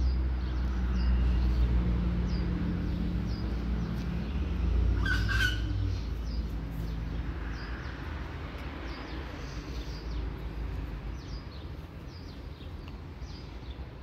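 Small songbirds chirping repeatedly in short, high chirps, with one louder call about five seconds in. A low hum rumbles underneath for the first half and then fades.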